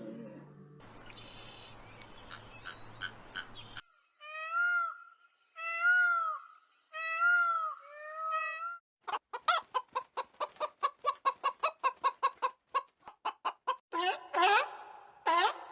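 Chickens clucking: a few separate drawn-out calls, then from about nine seconds in a fast run of short clucks, about five a second, and louder calls near the end. The first few seconds hold only a faint noisy stretch with light clicks.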